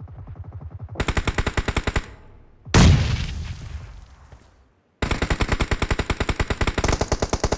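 Video-game automatic gunfire in rapid bursts, with one much louder blast about three seconds in that dies away slowly, a brief gap, then rapid fire again.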